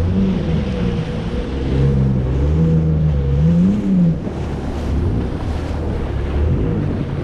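Jet ski engine running under way, its pitch rising and falling with the throttle, over the rush of wind and water spray.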